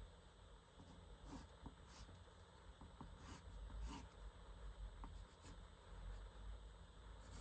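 Faint, scattered scratching strokes of a pen on paper during quick gesture sketching, over a low steady hum.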